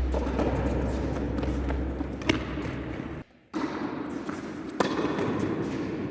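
Two sharp tennis ball impacts, one a little over two seconds in and one near five seconds, over the steady hum and noise of an indoor court.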